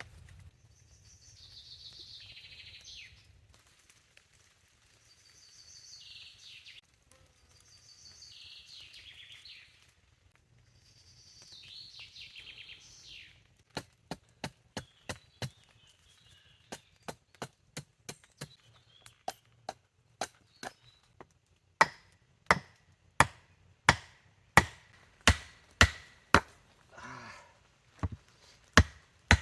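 Wood being worked by hand: four slow rasping strokes, then a run of sharp chopping blows on wood that grow louder and quicken to about two a second.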